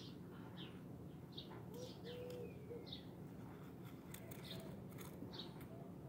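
Faint outdoor birdsong: short high chirps repeated every half second to a second over a low steady background hum, with a few short low notes about two seconds in.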